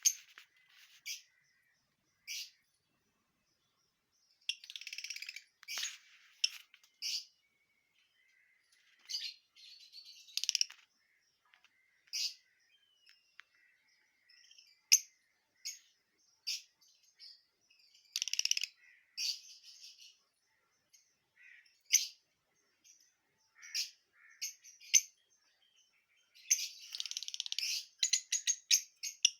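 Parrots calling in short, sharp chirps and squawks, broken by several longer bursts of chattering.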